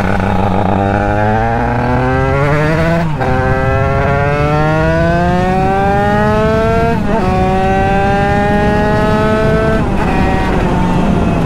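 Derbi DRD two-stroke engine with a 100 Fast kit accelerating hard, its pitch climbing then dropping at each of two upshifts, about three seconds and seven seconds in. Near the end it eases off. Wind noise rushes on the microphone underneath.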